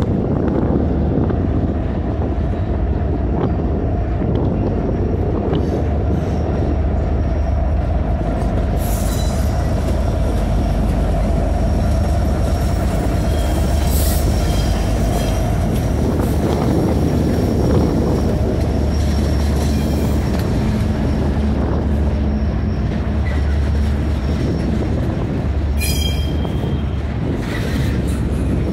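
Norfolk Southern diesel-electric locomotives (EMD SD70ACe) pass close, hauling a double-stack intermodal train, with the engines running as a steady low hum under the noise of the wheels on the rails. The wheels give brief high squeals a few times.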